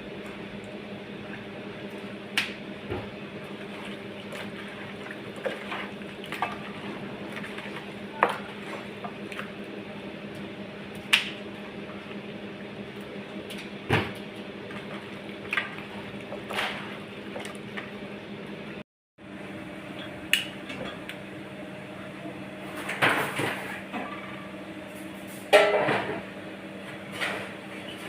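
Scattered clinks and knocks of cookware and utensils being handled, over a steady low hum. The sound cuts out briefly about two-thirds of the way through, and the knocks come more thickly near the end.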